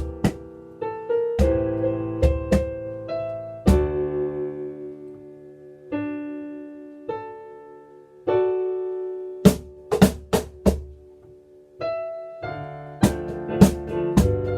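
Piano and cajón playing a ballad together: sustained piano chords and melody, with cajón strikes marking the beat. The cajón drops out through a quieter piano-only stretch in the middle, returns with a few hits around ten seconds in, then plays a busier run of quick strikes near the end.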